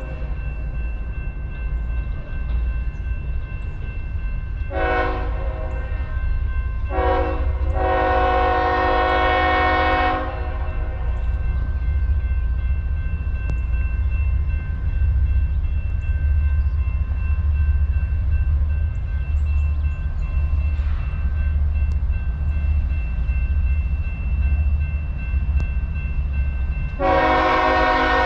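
CSX diesel locomotives on an empty coal train, engines rumbling steadily, with the multi-chime air horn sounded in blasts: two short ones about five and seven seconds in, then a long one. Another long blast starts near the end.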